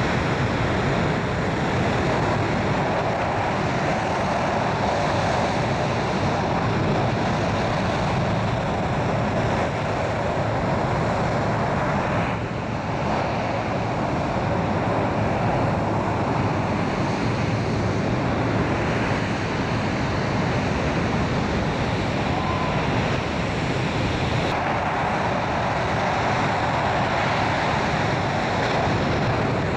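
English Electric Lightning F6's twin Rolls-Royce Avon turbojets running, a steady, loud, rushing jet noise with a brief dip about twelve seconds in.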